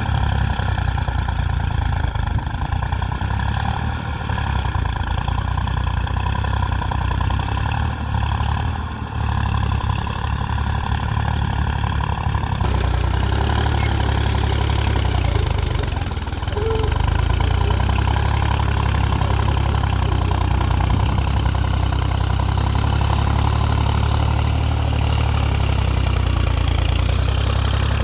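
Tractor engine running steadily, a little louder from a bit past halfway on.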